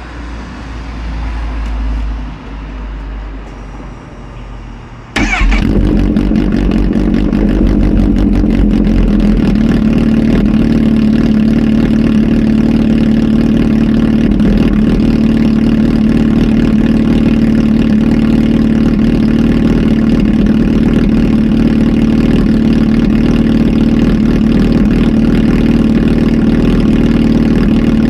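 Kawasaki Z H2 SE's supercharged inline-four with a full aftermarket exhaust starting up: it fires suddenly about five seconds in, then runs at a steady, loud idle.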